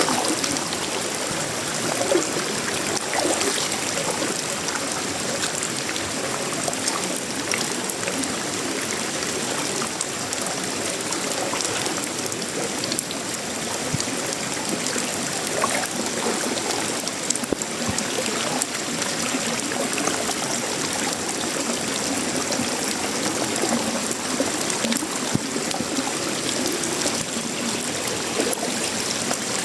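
Steady tropical rain falling on a sheet-metal roof, wood and leaves: a dense, even patter with scattered sharper drop hits.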